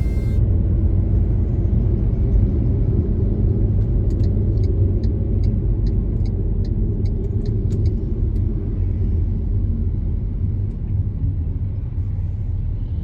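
Steady low road rumble of a car being driven, with faint, regular light ticks from about four to ten seconds in.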